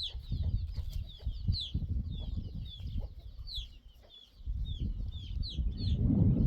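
Domestic chicks peeping: repeated short, high, falling peeps, one or two a second, over a low rumbling background.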